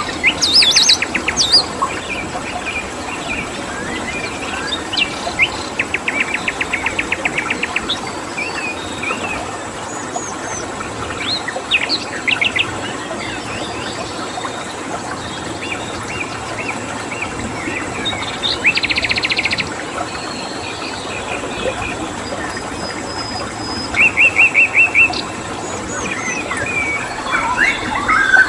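Several songbirds chirping and calling, with rapid trills of fast repeated notes, three of them louder, over a steady hiss and a cricket's thin, high, continuous tone.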